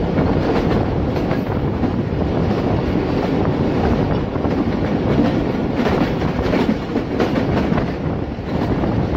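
Passenger train coach running at speed, its wheels clicking over the rail joints, heard through an open carriage window.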